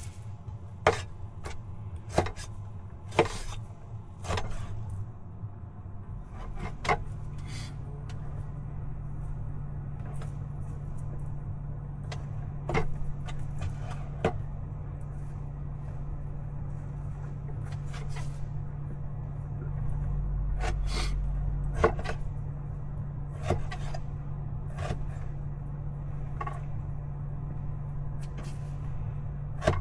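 Scattered sharp taps and knocks of hand food preparation, knife and utensils on a board and pot, over a steady low hum that comes in about six seconds in.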